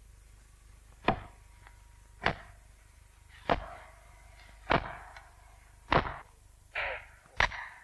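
Axe chopping into an oak trunk: six sharp strokes at a steady pace of about one every 1.2 seconds.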